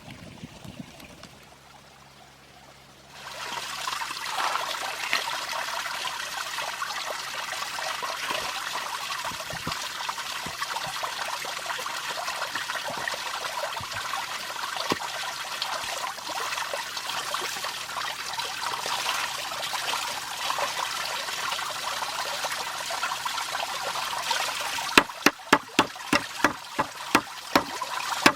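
Water trickling and running, starting abruptly about three seconds in, with a quick run of about a dozen sharp knocks near the end.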